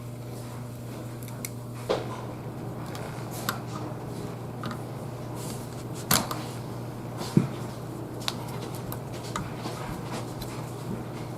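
Scattered sharp clicks and knocks, five or six in all, from parts and tools being handled, over a steady low hum.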